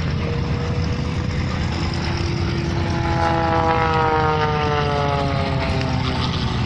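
Single-engine aerobatic propeller plane (MXS) flying past. Its engine and propeller drone grows louder about halfway in, then drops in pitch as it passes, over a steady low rumble.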